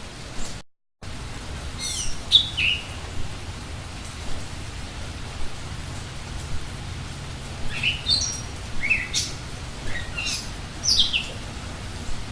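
Songbird calls: quick, sharp down-slurred chirps, a short run about two seconds in and a longer bout in the second half, over a steady rain-like hiss.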